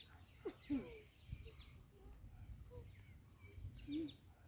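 Faint outdoor bird sounds: a series of short, high chirps repeating at uneven intervals, with a few brief low calls and a low rumbling noise underneath.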